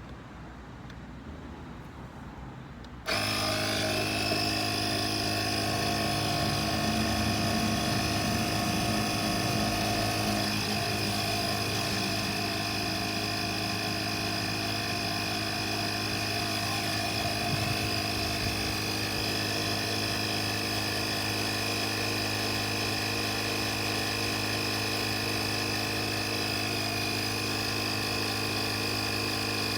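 Oasser portable electric air compressor switched on about three seconds in, its small motor and piston pump then running steadily with an even buzzing hum.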